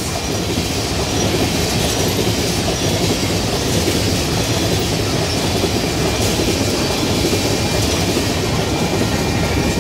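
Freight train of tank cars rolling past close by: steady noise of steel wheels running on the rails.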